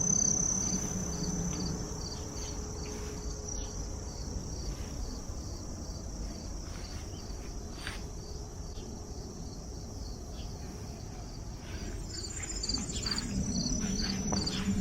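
Crickets chirping in a steady, even rhythm, about two high chirps a second, with a continuous high trill from another insect near the start.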